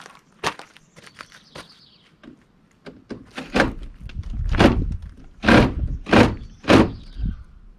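Heavy thuds and knocks from the motorhome's door being worked loose during teardown: a sharp click about half a second in, then a run of about five loud thumps in the second half, each half a second to a second apart.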